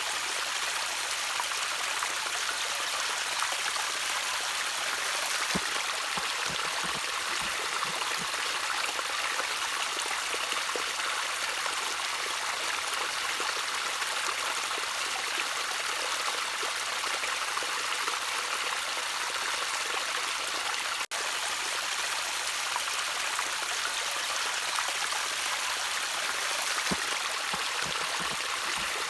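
Gentle trickling stream water, a steady bright hiss of running water with a few soft low plops. It breaks off for a split second about two-thirds of the way through.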